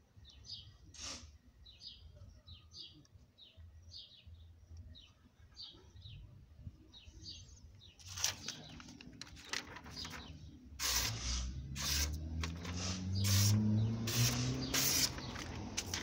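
A bird chirping in a steady series of short, high calls. About halfway, louder knocks and rustles begin, and an engine tone rises in pitch and becomes the loudest sound.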